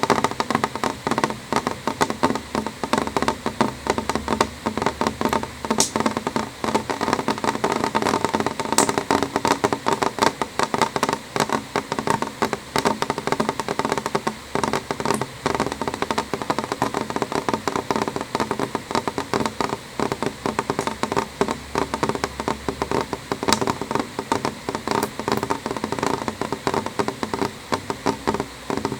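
Rain falling on a window pane: a dense, uneven stream of small drop ticks over a steady hiss.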